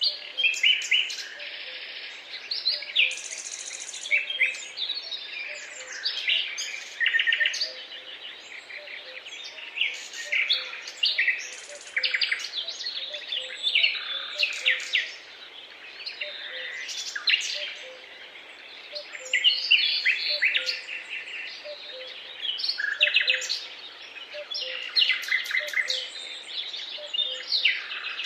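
Several songbirds singing and calling at once, a dense, continuous mix of chirps, trills and short whistled phrases.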